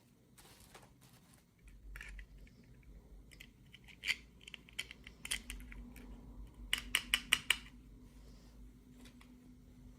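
Scattered clicks and light scrapes of small plastic toy parts and packaging being handled, with a quick run of clicks about seven seconds in.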